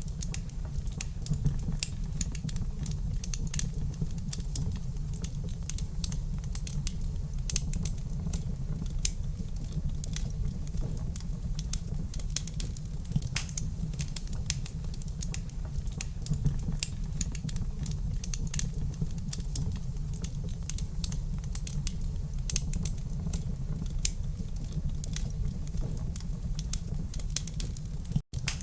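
Wood fire crackling in a fireplace: a steady stream of sharp pops and snaps over a low, steady rumble. The sound cuts out for an instant near the end.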